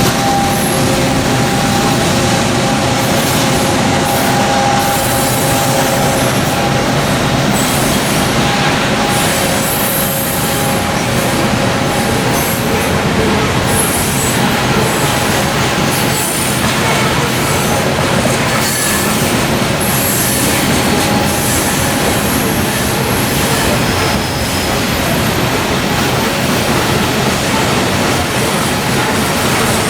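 Freight train of coal hopper cars rolling past: a steady roar of steel wheels on rail, with thin, drawn-out wheel squeals running through it.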